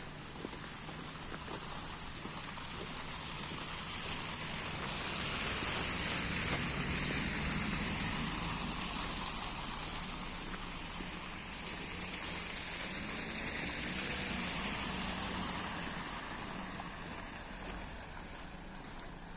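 Rushing hiss of traffic passing on a wet road, with a low hum under it, swelling and fading twice.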